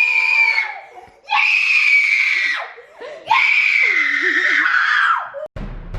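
A person screaming: three long, high-pitched screams with short breaks between them. Music with a low beat cuts in suddenly near the end.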